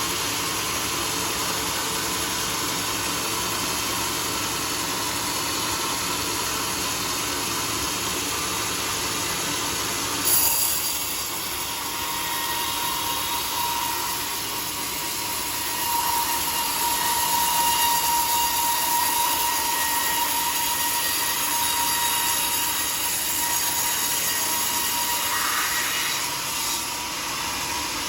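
Sawmill saw running on a teak log: steady machine noise that changes abruptly about ten seconds in, after which a steady high whine holds for the rest of the cut.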